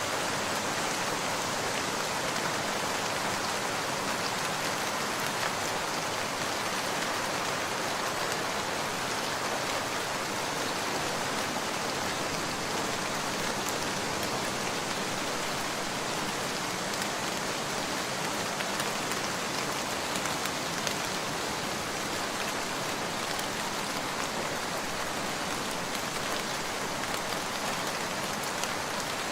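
Steady rain falling: an even hiss with faint scattered ticks.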